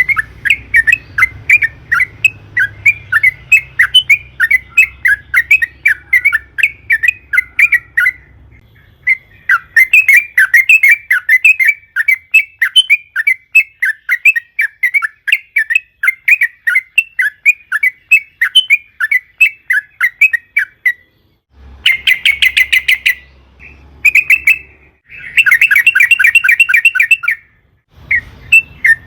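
Yellow-vented bulbuls (trucukan) singing in loud, fast runs of short chirps, several a second. The runs break off briefly twice and turn into denser, quicker chattering bursts near the end.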